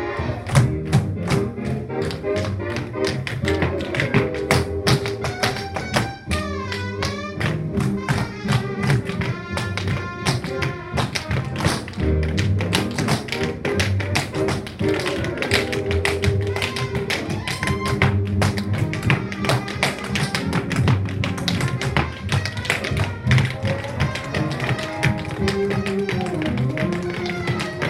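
Tap shoes striking a hard floor in fast, dense rhythms of tap dancing, over recorded music with held melodic notes.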